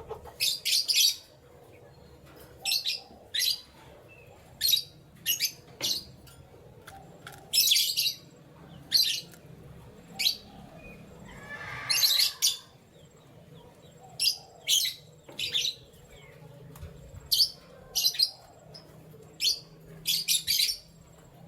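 Canaries chirping in short, separate high bursts every second or two, rather than in continuous song. About twelve seconds in there is a lower, longer call.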